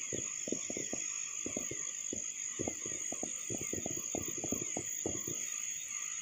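Distant New Year's fireworks going off in an irregular stream of dull pops and bangs, several a second, over a steady high-pitched drone of night insects.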